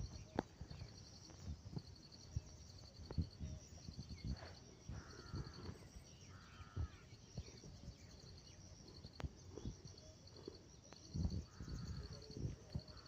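Insects chirping in repeated fast pulsed trains, with a bird giving three short calls and occasional low thumps.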